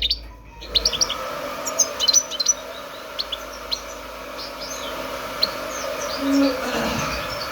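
European goldfinch singing: a quick, broken run of short, high chirps and twitters, over a steady low hum.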